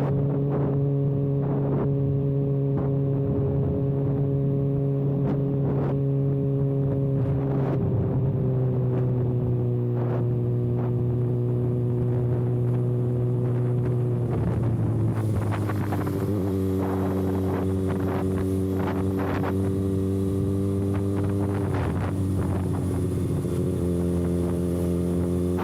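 Kawasaki ZX-6R inline-four running with its exhaust canister removed, holding a steady engine speed on the road. The pitch drops a step about a third of the way in, slides lower around the middle, drops again near the end, then rises a little just before the end.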